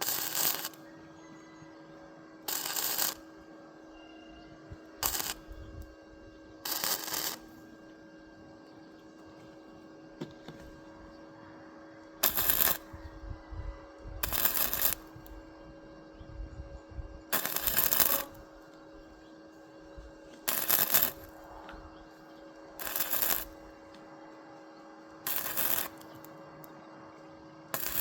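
Electric arc welder laying a series of short tack welds: about eleven crackling bursts of half a second to a second each, one to three seconds apart, over the welding machine's steady hum.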